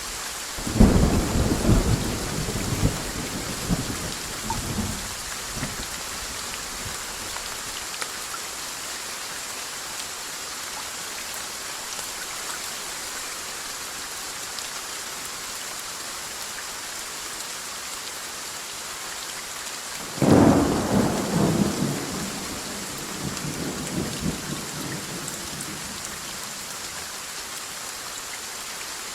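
Steady rain hissing, with two rolls of thunder: one starting just under a second in and rumbling off over about five seconds, another starting about twenty seconds in and fading over about six seconds.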